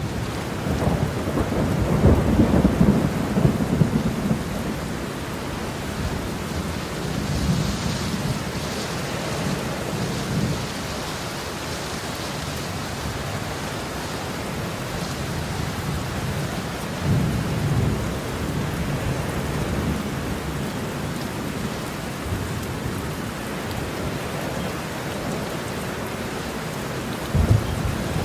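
Heavy rain falling steadily, with low rolling thunder rumbles swelling several times: the loudest a couple of seconds in, others around eight and seventeen seconds in, and a sharper one near the end.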